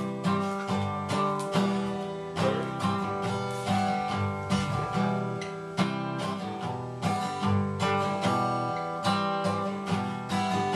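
Acoustic guitar strummed in a steady, even rhythm of chords, with no singing.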